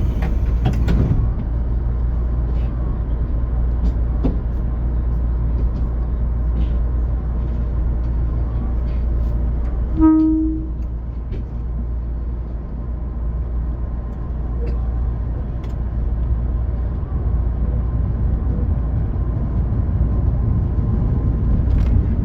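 Commuter electric train running, a steady low rumble. About ten seconds in there is one short horn toot of about half a second.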